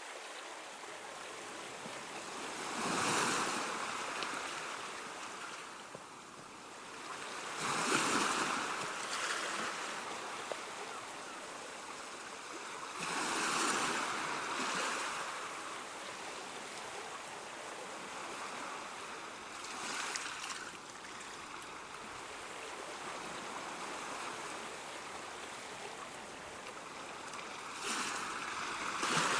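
Ocean waves breaking on a shore, one surge every five to seven seconds over a steady wash of surf.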